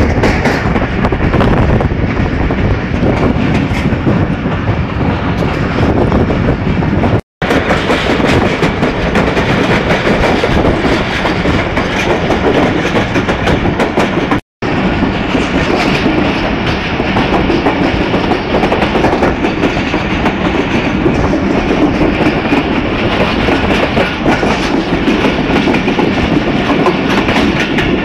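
Pakistan Railway passenger train heard from the open doorway of a moving coach: a loud, steady rumble of the wheels running on the rails as the train takes a curve. The sound cuts out for a split second twice, about seven and fourteen seconds in.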